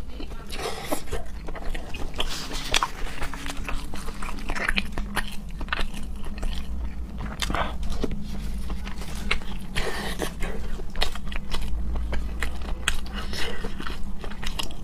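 Close-miked chewing and biting: a steady run of small wet clicks and crunches as a mouthful of pork intestine stuffed with pork brain is eaten. A low steady hum lies underneath.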